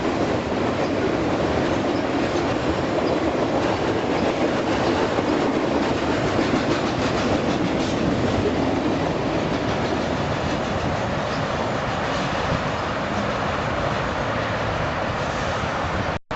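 Cars of a welded rail work train rolling past at speed: a steady rumble of steel wheels on rail with a fast, continuous clatter.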